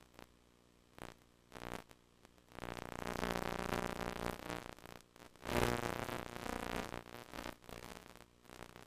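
VHS Hi-Fi audio buzz and static from slightly damaged tape. A low buzz is broken by short crackles, then swells into a louder stretch of buzz and hiss from about two and a half seconds in. It is loudest just past the middle and fades near the end.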